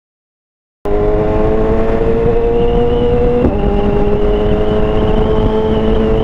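Silence for nearly a second, then a cut straight into a BMW S1000RR inline-four engine running at speed, heard from inside the rider's helmet over a low wind rumble. The engine pitch climbs slowly, drops sharply about three and a half seconds in as it shifts up a gear, then holds steady.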